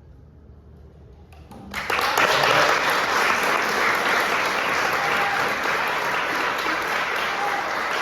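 A short hush, then audience applause breaks out about two seconds in and goes on steadily, greeting the end of a string ensemble's performance.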